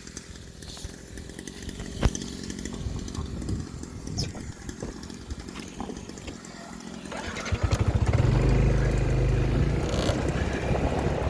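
Small motorbike engine running, faint and uneven at first, then much louder and steadier from about seven and a half seconds in.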